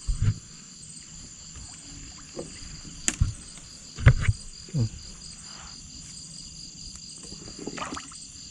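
Paddle strokes and water splashing as a small boat is manoeuvred, with several short low sloshes or knocks near the start and around three to five seconds in. Under them a steady, high, pulsing chorus of night insects.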